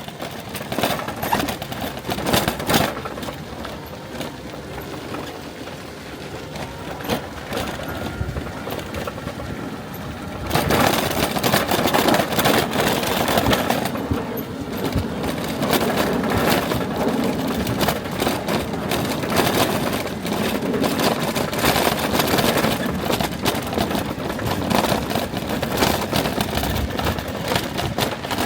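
A vehicle on the move: steady engine and road noise with rattling and crunching, getting louder about ten seconds in.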